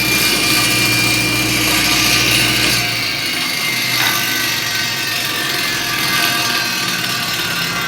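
Table saw running. Its low hum drops away about three seconds in, and its whine then falls slowly as the blade spins down.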